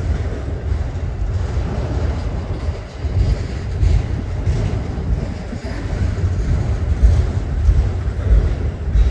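Freight train of autorack cars rolling past close by, a steady loud rumble of steel wheels on the rails with uneven low surges.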